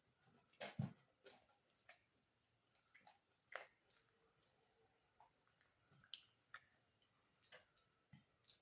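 Close-miked eating: faint mouth clicks and soft chewing of beef biryani, with scattered small sharp smacks, the loudest just under a second in.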